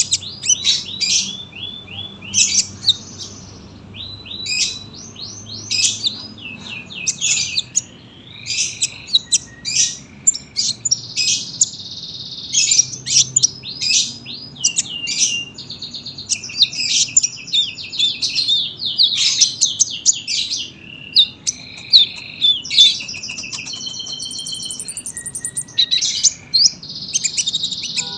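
Olive-backed sunbird (kolibri ninja) singing continuously: long strings of rapid, high chirps and trills, one phrase running into the next without a pause.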